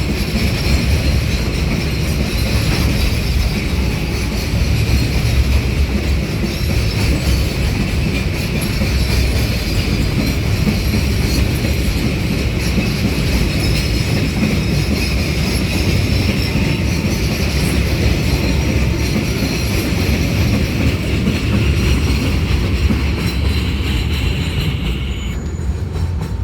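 Freight train rolling past: the wagons give a continuous heavy rumble, with a steady high wheel squeal that cuts off near the end.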